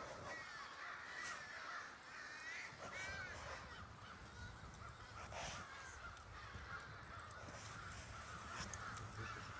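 Faint bird calls, many short overlapping chirps and cries with a few louder arching calls about three seconds in.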